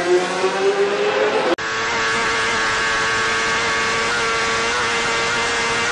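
Racing motorcycle engine at high revs, rising in pitch for the first second and a half, then after an abrupt cut holding a steady high note, flat out.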